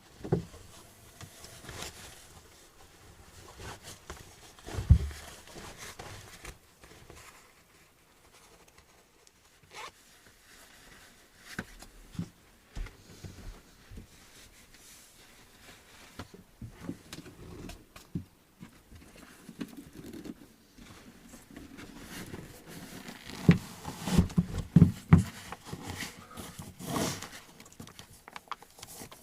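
Rustling, scraping and scattered knocks of someone moving about and handling clothing or gear in a small wooden room, with zipper-like sounds. There is a sharp knock about five seconds in and a busier run of knocks and rustling near the end.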